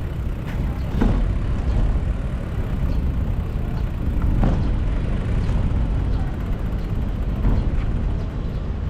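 City street traffic heard from a moving bicycle: motor vehicles running and passing, under a steady heavy low rumble.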